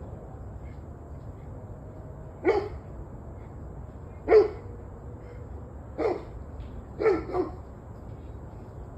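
A dog barking: single barks spaced about two seconds apart, then a quick double bark near the end, over a steady low hum.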